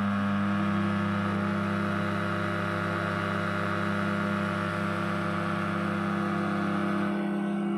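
A brand-new Dawlance microwave oven running with a loud, steady hum, a low drone with a higher tone joining just after it starts. The owner does not find it normal and is unsure whether it comes from the motor, the fan or the transformer.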